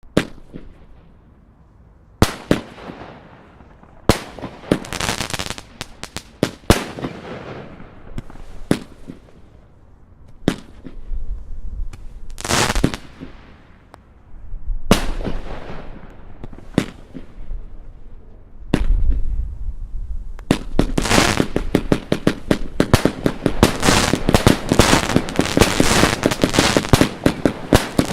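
Royal Party Fireworks 'Blizzard' consumer firework going off: sharp shots a second or two apart, each followed by a crackling tail. From about twenty seconds in it turns into a dense, rapid barrage of crackling bursts.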